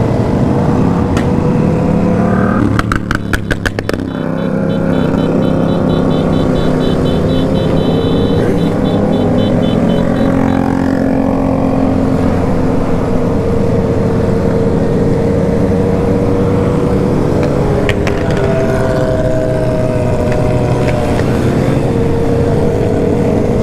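Remapped sport motorcycle engines running and revving on the road in a group, their pitch rising and falling. About three seconds in comes a rapid string of sharp cracks, like exhaust popping.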